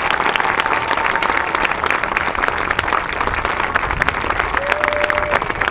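Crowd applauding, dense steady clapping throughout, with a faint held tone in the first couple of seconds and another near the end.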